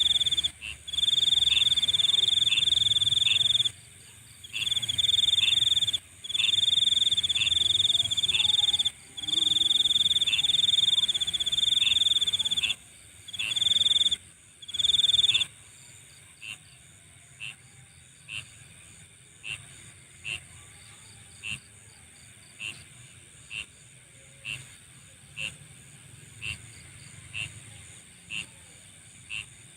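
Night insect chorus: a loud high-pitched trill in bouts of one to three seconds that stops about halfway through, leaving short chirps about one a second over a steady faint high-pitched insect hum.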